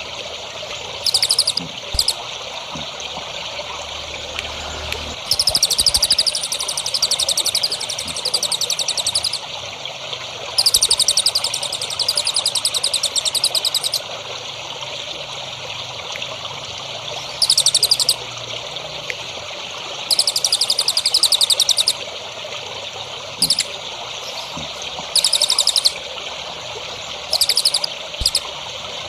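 A songbird singing rapid, high, buzzy trills in repeated bursts, the longest lasting three to four seconds, over a steady trickle of running water.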